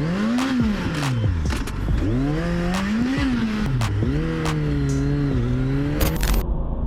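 Motorcycle engine revving up and easing off about three times in a row, its pitch rising and falling, with a few short clicks over it.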